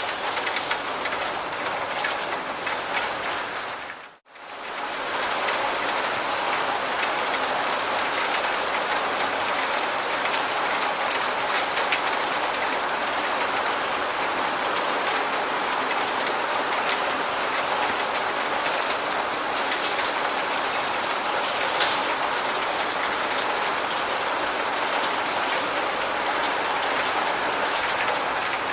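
Steady heavy rain falling on a surface, an even hiss with many small drop ticks. About four seconds in it fades out to near silence for a moment and fades back in.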